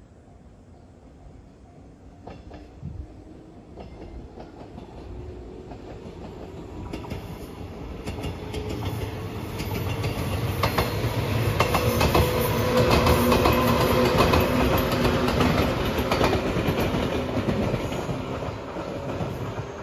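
JR 115 series electric train approaching and passing, wheels clacking over the rail joints. It grows steadily louder to a peak about two-thirds of the way through, then eases off slightly.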